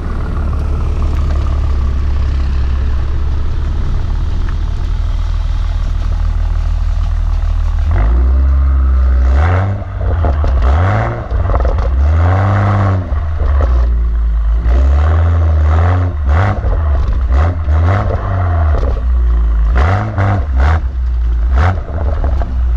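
BMW M135i engine through its M Performance rear silencer with the exhaust valves open, running steadily at first, then revved in a quick series of throttle blips from about eight seconds in, with sharp cracks on the overrun near the end.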